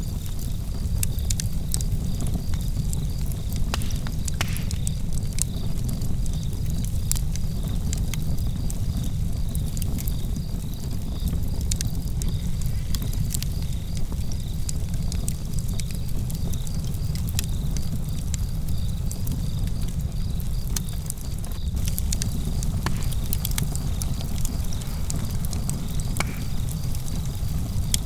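Campfire burning with frequent sharp crackles and pops over a steady low rumble, while crickets chirp steadily.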